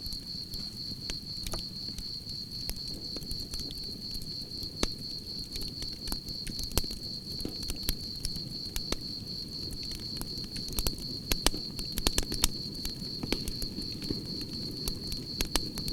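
Wood campfire crackling and popping over a low rumble of flames, the pops coming thicker in the second half, with a steady high-pitched trill of chirping crickets.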